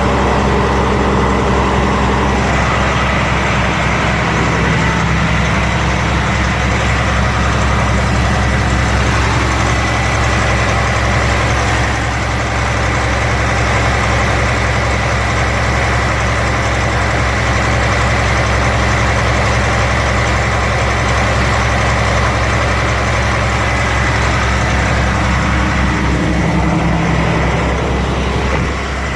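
Truck's diesel engine running steadily at raised revs, with an unfamiliar hiss over the engine note. Diesel fuel has leaked onto the engine and dripped onto the exhaust pipe.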